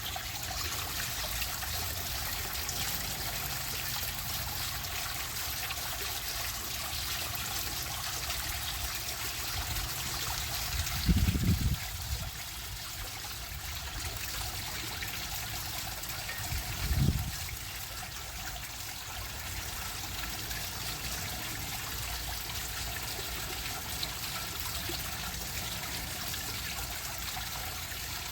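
Water running steadily over a small garden waterfall made from a broken shovel. Two brief low rumbles come about 11 and 17 seconds in.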